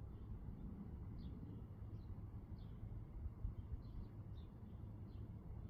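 Faint bird chirps, a short high call repeated about six times, over a steady low outdoor rumble.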